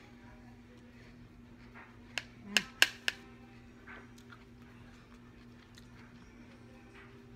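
Four sharp clicks in quick succession, about a quarter of a second apart, over a faint steady hum.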